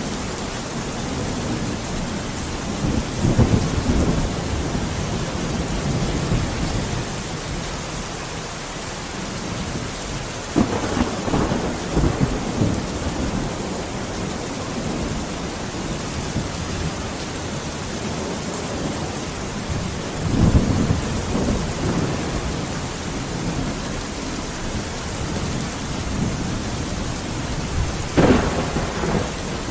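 Steady rain falling, with four rolls of thunder: the second, about ten seconds in, and the last, near the end, each begin with a sharp crack.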